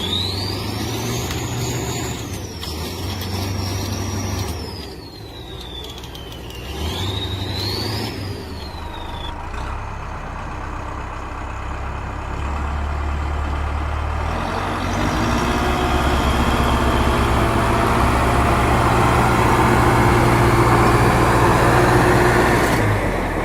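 Vehicle engine sound. A high whine glides up, falls and rises again over the first several seconds, then a louder, steady engine rumble comes in about halfway through.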